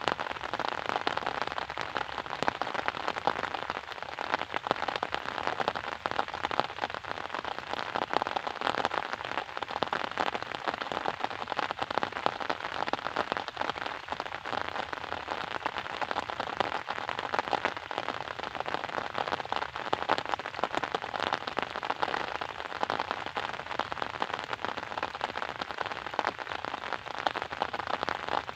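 Steady rain falling and pattering, a dense patter of many small drop hits.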